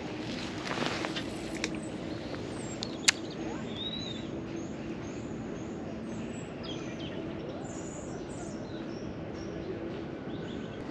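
Small birds giving short, high chirps, a quick series of them through the middle of the stretch, over steady outdoor background noise with a faint low hum. A single sharp click sounds about three seconds in.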